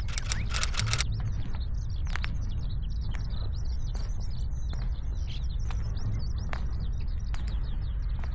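Small songbird twittering: a fast, unbroken run of short high chirps. A few sharp clicks come in the first second, over a steady low rumble.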